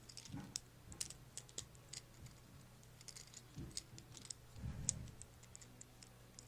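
Faint, irregular clicks and light rattles of plastic Lego pieces being handled and pressed together, with a few soft bumps.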